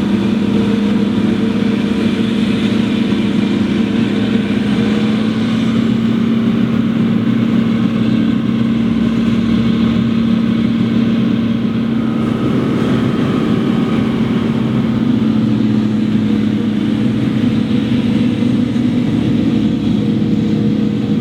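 Large diesel farm machinery running steadily under load at constant high revs, a loud, even drone with no break.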